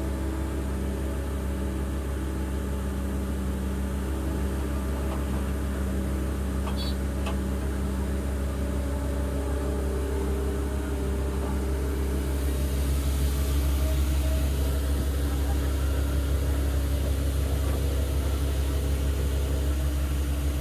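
Komatsu PC210 hydraulic excavator's diesel engine running steadily at work, getting a little louder about halfway through.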